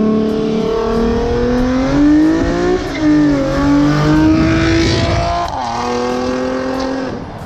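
Car engine accelerating hard, its pitch climbing, then dropping at an upshift about three seconds in and again about five and a half seconds in before holding steadier.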